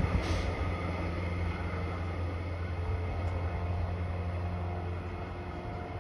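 Electric suburban train running, a low rumble that slowly fades as it moves away.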